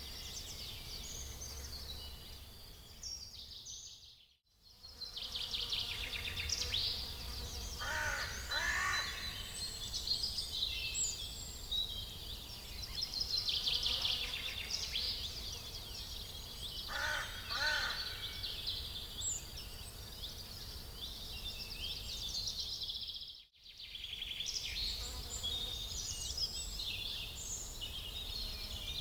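Many small birds chirping and twittering, with a lower, harsher call twice, about 8 and 17 seconds in, over a steady low rumble. The sound drops out briefly twice.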